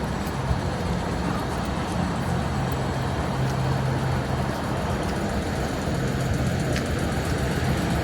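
Class 455 electric suburban train running along, heard from on board: a steady rumble with a low hum that comes and goes.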